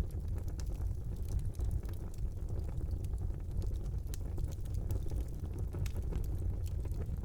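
Fire burning in a brick fireplace: a steady low rumble of flames with frequent small, sharp crackles and pops at irregular intervals.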